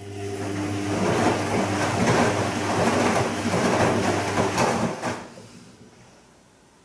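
Bosch Serie 2 Vario Perfect washing machine on its gentle Silk wash, turning the drum in one burst of about five seconds: a motor hum with wet laundry tumbling in the water. It stops with a click about five seconds in and fades out.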